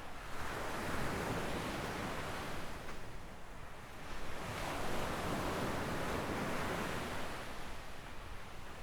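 Gentle waves breaking and washing up a sandy beach: two swells of surf, one just after the start and a second from about halfway through.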